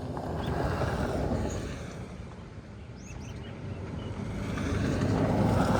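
Road traffic passing: one vehicle goes by about a second in, then another approaches and grows louder toward the end. A couple of faint bird chirps about three seconds in.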